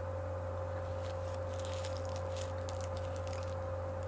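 Faint, irregular wet clicks of a mouth chewing sticky toffee, mostly through the middle. A steady electrical hum with a constant higher tone runs under it and is the loudest sound.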